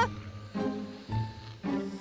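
Cartoon background music: a few separate low string notes, plucked and bowed.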